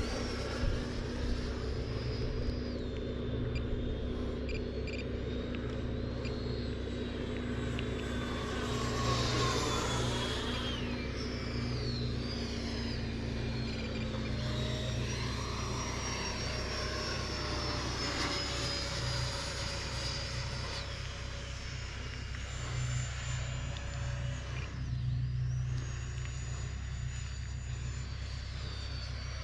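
Radio-controlled model jets flying past, a high whine of several tones whose pitch slides down as each plane goes by, most clearly about ten seconds in and again near the end, over a steady low rumble.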